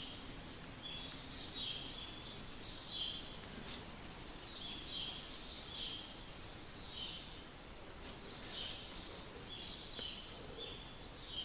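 Small birds chirping: short, high, falling chirps repeated every second or so over a faint background hiss.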